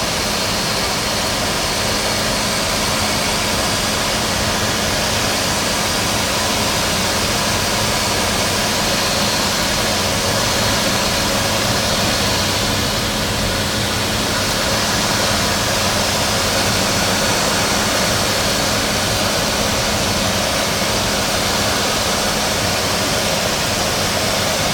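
Light aircraft's engine and propeller droning steadily as the seaplane comes in to land, a constant loud rush with a low hum underneath.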